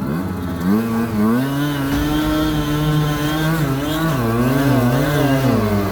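Small 50cc two-stroke engine of a vintage Kreidler Florett motorcycle running, its pitch rising and falling as the throttle is worked.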